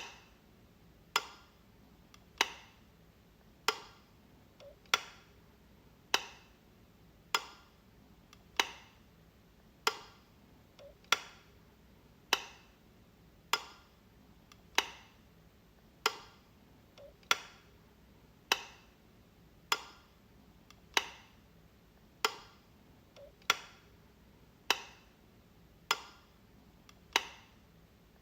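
Light switch clicking on and off over and over, one sharp click about every 1.2 seconds, some with a softer click just before.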